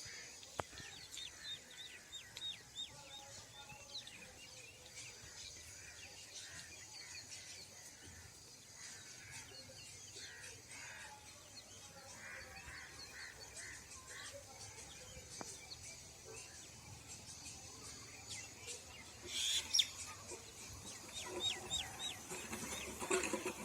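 Green parakeets calling in scattered bursts of short, high chirps, faint at first and louder near the end.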